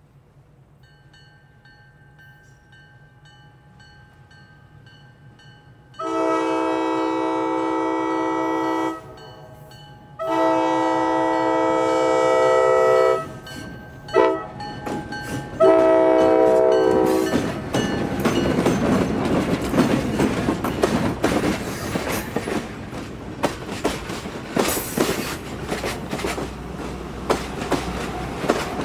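A bell dings faintly about twice a second. About six seconds in, the Nathan K5LA horn of a pair of EMD FP9A diesel locomotives sounds the grade-crossing pattern: long, long, short, long. The train then passes close by, its passenger cars' wheels clattering over the rail joints.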